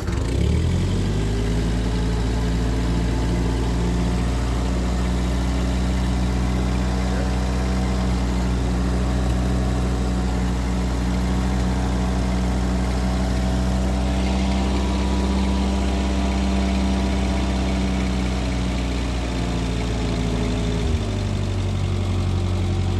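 A 1948 Ford 8N tractor's four-cylinder flathead engine catches and settles into a steady fast idle. It is a cold start with the choke pulled out and the throttle set about halfway. Near the end the engine note drops slightly.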